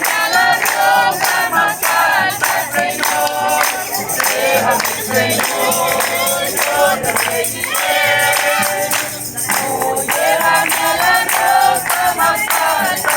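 A group singing a Spanish Christian hymn with tambourine accompaniment.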